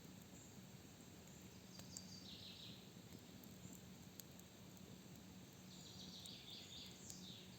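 Faint forest ambience: a songbird sings two short descending trilled phrases, about two seconds in and again near the end, over a steady low hum with a few faint clicks.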